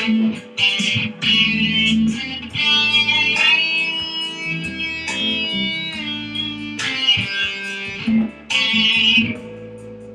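Instrumental break in a song: guitar playing held melodic notes, some bending in pitch, over a steady backing.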